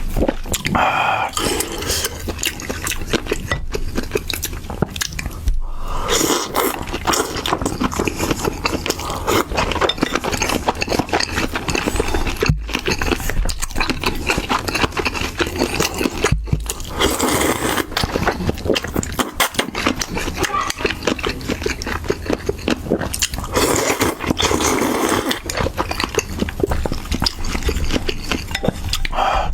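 Close-up chewing, sucking and slurping of braised chicken feet, a dense run of wet smacks and small clicks with louder stretches every few seconds.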